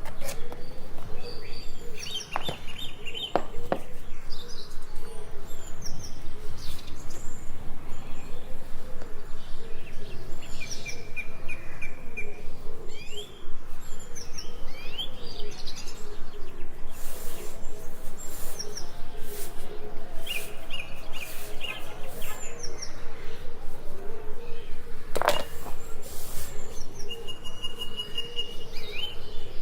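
Small birds chirping and tweeting repeatedly over steady background noise.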